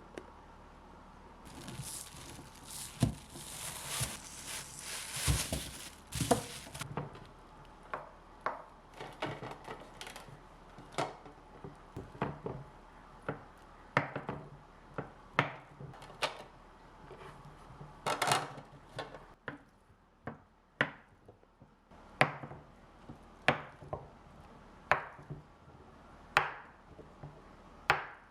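Kitchen knife chopping food on a cutting board in slow, separate strokes, roughly one a second, after a few seconds of rustling with a few knocks at the start.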